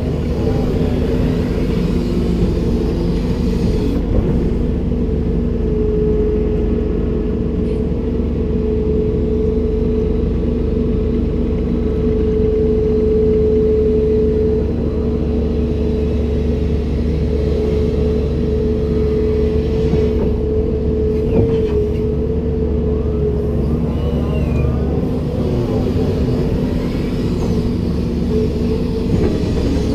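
Komatsu PC290-10 hydraulic excavator's diesel engine and hydraulics running, a steady drone at an even pitch.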